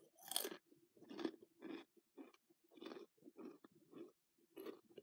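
Person chewing crunchy potato chips dipped in barbecue sauce, a run of crunching bites about two a second, the loudest right at the start.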